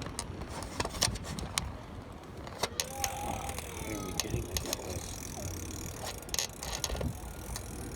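Bicycle being ridden, with a steady low rumble and many scattered sharp clicks and rattles from the bike.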